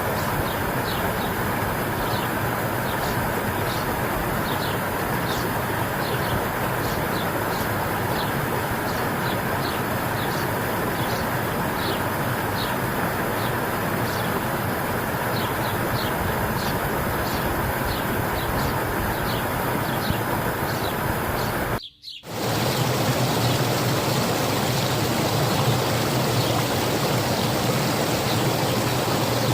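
Spring water running steadily, with a small bird giving short, high chirps over and over. About two-thirds of the way in the sound drops out for a moment, and after that only the running water is left.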